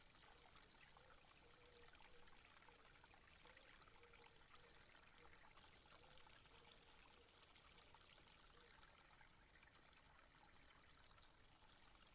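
Very faint, steady trickle and splash of a water fountain.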